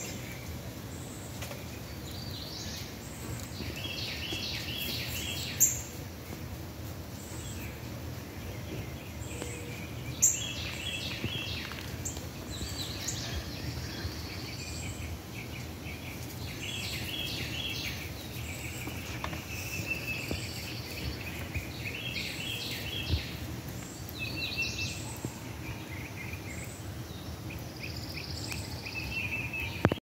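Birds singing short, high chirping phrases that recur every few seconds over a steady outdoor background hiss. Two sharp clicks stand out, about six and ten seconds in.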